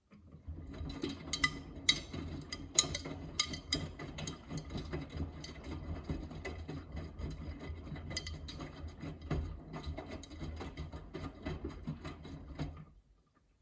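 Miele W3985 washing machine in its main wash: the drum turns for about thirteen seconds with a low motor hum and many sharp clicks as the laundry tumbles, starting after a pause and stopping near the end.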